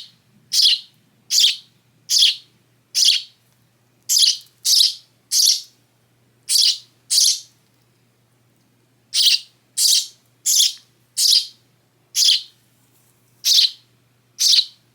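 Young hand-raised sparrow chirping loudly over and over, short high chirps that each drop in pitch, coming a little less than a second apart, with a pause of about two seconds midway.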